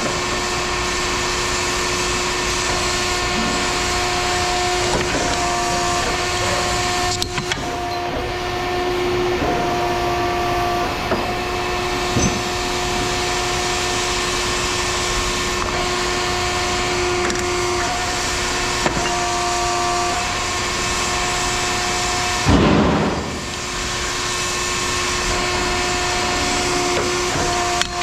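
Steady mechanical running noise with a few pitched hums that come and go and scattered light knocks. One louder thud comes about two-thirds of the way through.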